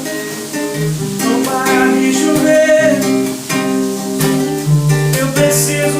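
Acoustic guitar strummed and picked, playing chords of a sertanejo song between sung lines.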